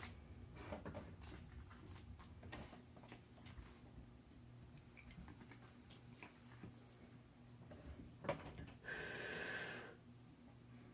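Faint eating sounds from someone eating spicy ramen noodles: scattered small clicks and mouth noises, and a breathy noise lasting about a second near the end.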